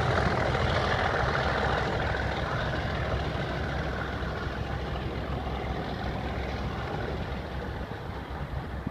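Class 37 diesel locomotive's English Electric V12 engine working under power, a steady low drone with a broad roar above it, fading gradually as the locomotive draws away.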